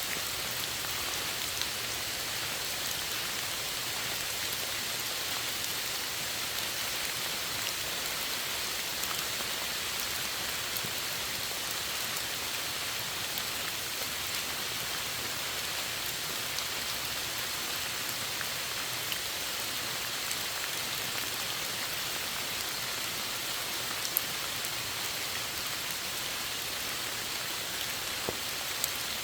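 Steady rain falling, a continuous even hiss with scattered sharp ticks of individual drops, one a little louder than the rest near the end.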